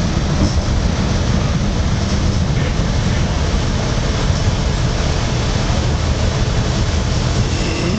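Commuter train running along the rails, heard from inside the passenger car: a steady, loud rumble with rail and running noise.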